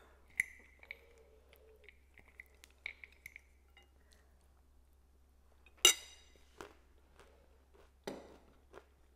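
Faint chewing and crunching of a mouthful of endive salad with nuts, with small scattered crunches. A fork clinks sharply against a ceramic bowl about six seconds in, the loudest sound, with another clatter of fork and bowl about eight seconds in.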